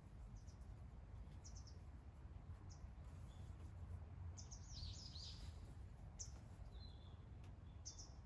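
Faint bird calls: scattered short high chirps, with a quick run of chirping about halfway through, over a quiet background with a low steady rumble.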